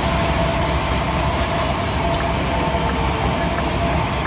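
Steady drone of a Scania P340 truck on the move, heard from inside the cab: low engine rumble and road noise with a steady whine over it.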